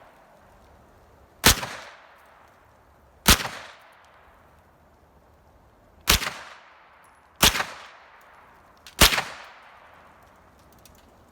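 Five single 9mm pistol-calibre shots from a Kel-Tec that takes Glock 19 magazines, fired at an uneven pace about one every one and a half to three seconds, each crack trailing off in a short echo.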